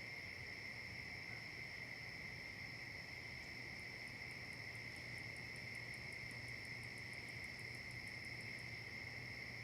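Faint steady insect chorus, a continuous high-pitched drone. From about four seconds in until shortly before the end, a higher, rapid ticking of about six pulses a second runs over it.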